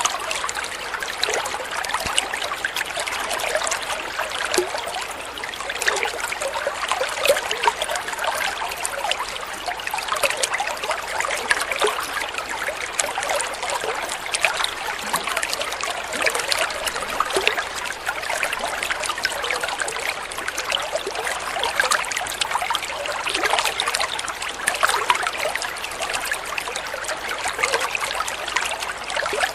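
Flowing water trickling steadily, with many small splashes.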